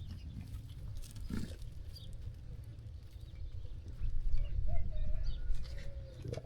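Sheep-farm ambience: a flock of sheep moving and grazing, with a short animal sound about a second and a half in and faint high chirps, over a low rumble that grows louder about four seconds in.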